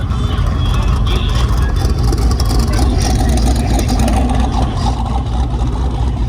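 A vehicle engine running steadily, with voices in the background.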